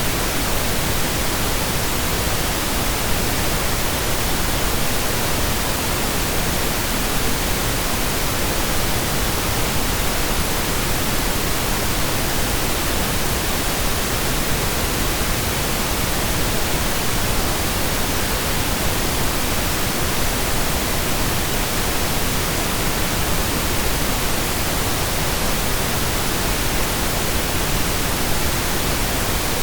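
Steady synthesized pink noise, an even hiss with equal energy per octave, like steady rain or a waterfall.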